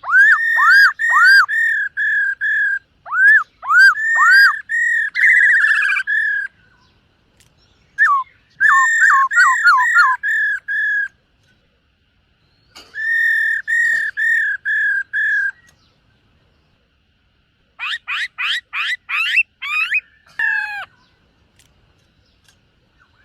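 Black-throated laughingthrush singing: loud phrases of rapidly repeated clear whistled notes, many with a downward hook, in four bursts broken by short pauses. The last burst, near the end, is a quick run of falling sweeps, and the song stops for the final couple of seconds.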